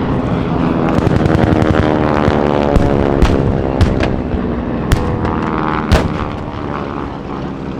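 A propeller warplane's engine drone passes low, its pitch shifting as it goes by, under a rapid crackle of simulated gunfire. About six louder sharp bangs are spaced through the middle, and the sound fades near the end.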